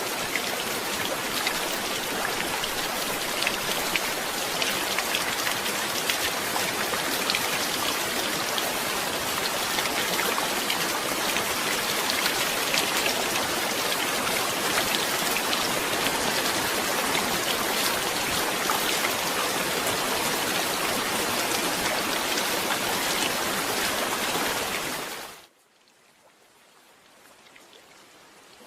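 Steady heavy rain with close, crackly drops falling on a surface. Near the end it cuts out abruptly to near silence, then begins to fade back in quietly.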